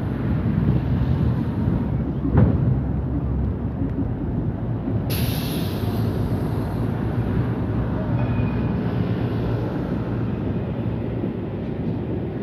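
Outdoor city ambience: a steady low rumble of vehicles, with a short knock about two and a half seconds in and a brief hiss about five seconds in.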